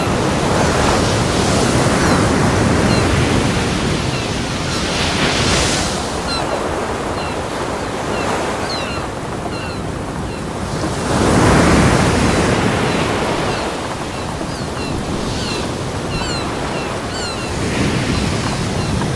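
Ocean surf breaking on a beach: a continuous wash of water that swells into repeated crashes every few seconds, the loudest a little past the middle.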